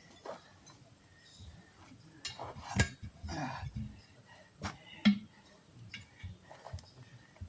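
A few sharp knocks and light clinks from hard objects being handled, the loudest nearly three seconds in and another just under five seconds in, with quieter scuffing between.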